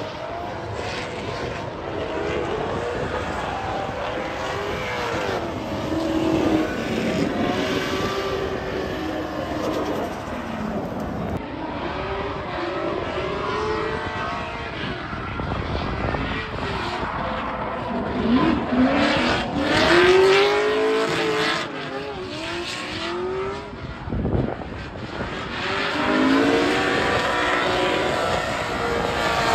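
Drift cars on a race track, their engines revving up and falling back again and again, loudest in a few bursts.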